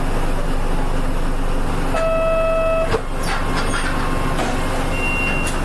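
Interior of a KL-UA452MAN city bus, its diesel engine running with a steady rumble. About two seconds in, an onboard beep sounds for about a second, followed by a click, and a short high tone comes near the end.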